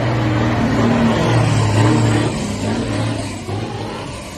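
Truck engine running and accelerating, gradually fading over the second half.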